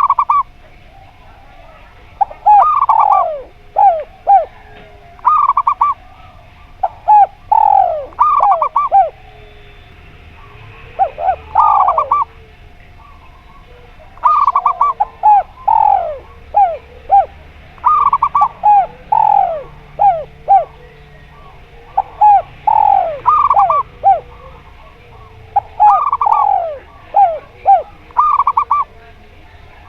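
Zebra doves and spotted doves cooing: short phrases of quick, rolling coo notes repeated every second or two, with brief pauses between them.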